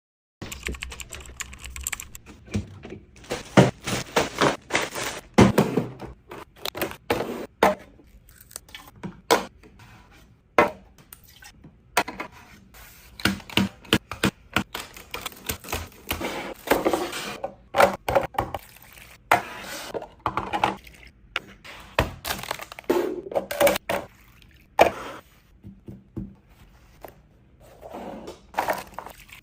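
Food containers and packaging being handled and set down, with irregular knocks, clicks and short rustles starting about half a second in.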